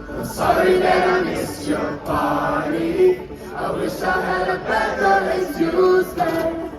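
Concert crowd singing together in drawn-out phrases of about a second each, with little beat under it.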